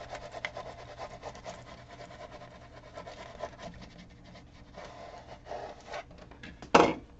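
Irregular rubbing and scraping strokes on vinyl transfer tape, with one short, much louder scrape near the end.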